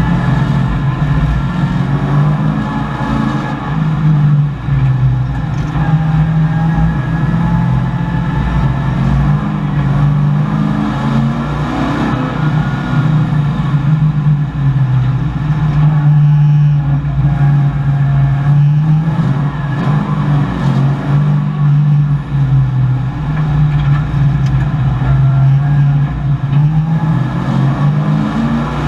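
Chevrolet Camaro race car's V8 engine heard from inside the cabin, its revs rising and falling again and again as the car accelerates, shifts and slows through the corners.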